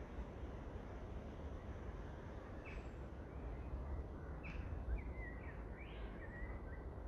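A songbird sings a short run of high chirps and twitters, starting about three seconds in, over a steady low background rumble.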